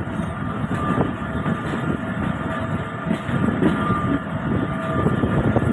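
A train running on the rails: a dense rumble with irregular knocks and clatter, and a few faint steady squealing tones above it.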